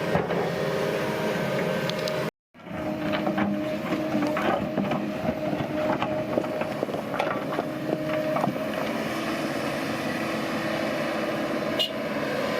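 Diesel engine of heavy earth-moving machinery running steadily, with scattered knocks and clanks. The sound drops out completely for a moment about two seconds in.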